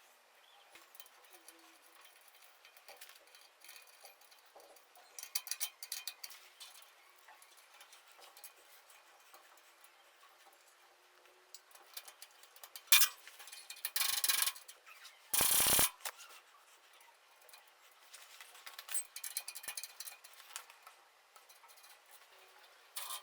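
Small clicks, taps and metal clinks of tools and parts being handled during workshop assembly, with two louder scraping noises a little past halfway and a loud half-second burst of noise soon after.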